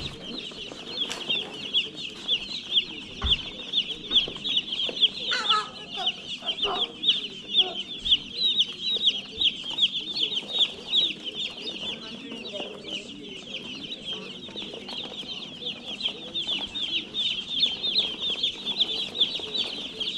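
A brooder full of day-old Cornish cross chicks peeping continuously, many high chirps overlapping into a steady chorus.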